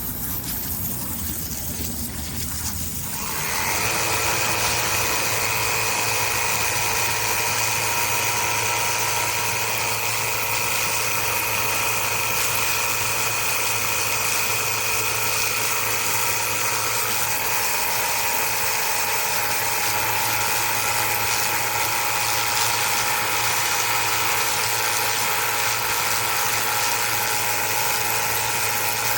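Cordless pressure washer's electric motor and pump running with a steady whine, which starts about three and a half seconds in after a softer, noisier stretch.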